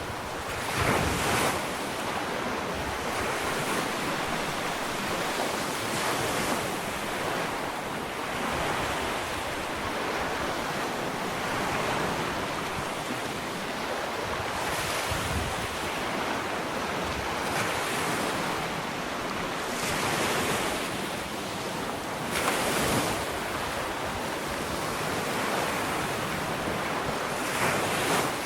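Ocean waves breaking and washing up a sandy beach: a continuous surf wash that swells every few seconds as each wave comes in, with some wind on the microphone.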